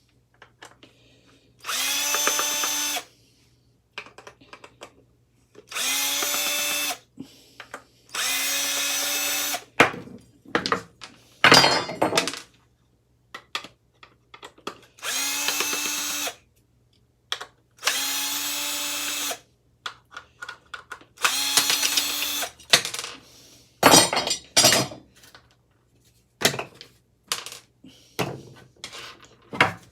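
Electric drill running in short, steady-pitched bursts of about a second each, about seven times, with a few sharp metal knocks between the runs.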